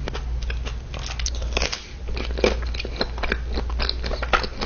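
Close-up mouth sounds of a person biting and chewing a coconut-flavoured dessert: many short, irregular clicks and crackles over a steady low hum.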